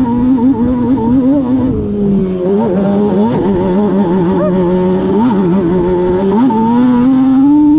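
Yamaha Banshee quad's two-stroke twin engine, bored out with a Cheetah 426 big bore kit, running under load on a ride, its pitch wavering up and down with the throttle. The pitch drops about two seconds in and climbs again near the end.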